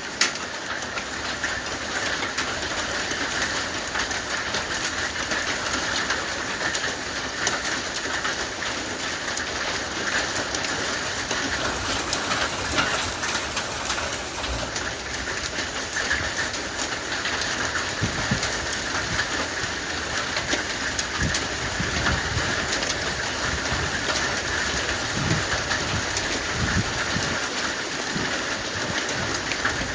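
Heavy hail falling and pattering steadily, a dense clatter of many small impacts on surfaces, with a few low rumbles at times.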